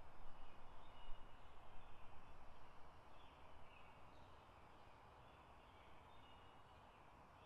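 Faint outdoor ambience: a hiss with a few faint, short bird chirps. It is uneven and a little louder for the first few seconds, then settles to a steady low hiss.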